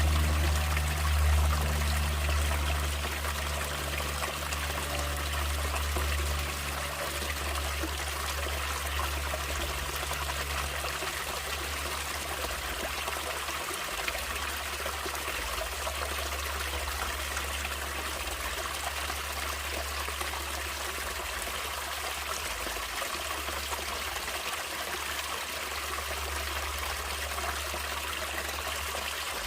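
Stream water trickling and flowing steadily over rocks, a continuous splashing hiss with a low rumble underneath.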